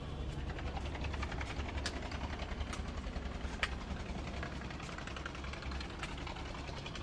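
An engine running steadily with a low hum and fast fine ticking, with a few sharp knocks over it.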